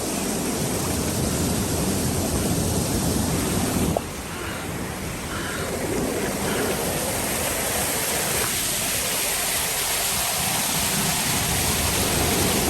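Waterfall rushing, a steady roar of falling water that changes suddenly about four seconds in.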